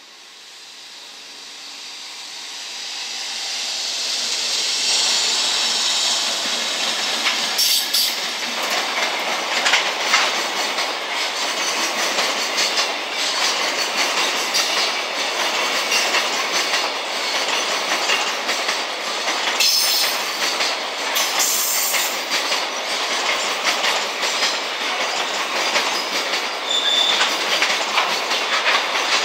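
JR Freight container train hauled by an EF210 electric locomotive, passing close by on curved track. The noise builds over the first four seconds as the locomotives approach. Then the long string of container wagons goes by with steady rail noise, repeated wheel clacks over the rail joints, and a few brief high wheel squeals near the end.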